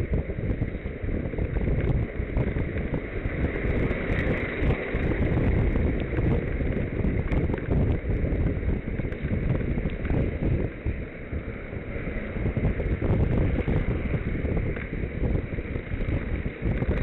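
Wind buffeting the microphone while riding a bicycle: a loud, uneven low rumble with scattered small clicks and rattles.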